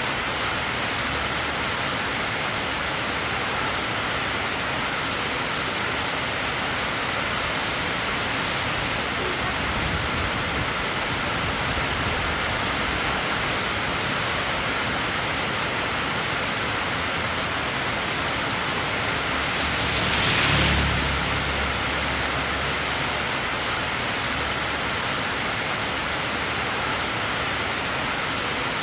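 Steady heavy rainfall, an even dense hiss, with one brief louder surge about two-thirds of the way through.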